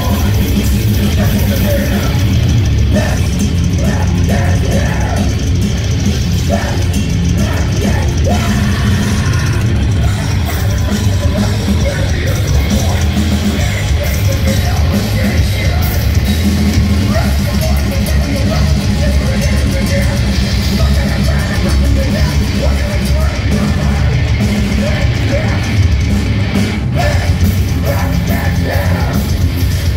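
A live heavy metal band playing loudly and without a break.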